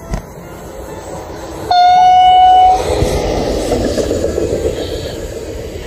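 ICE high-speed train sounding one horn blast of about a second, then the rushing noise of the train passing at speed, slowly fading.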